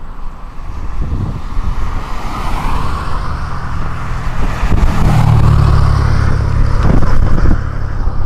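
A car driving, with steady road and engine noise and a deep rumble that swells about halfway through and eases near the end.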